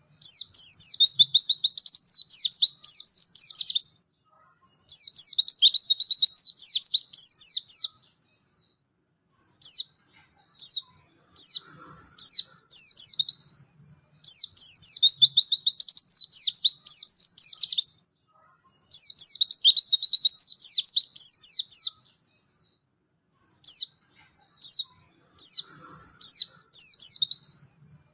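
White-eye (pleci) singing in long, fast, high-pitched chirping phrases of three to four seconds each, about six phrases with short pauses between them.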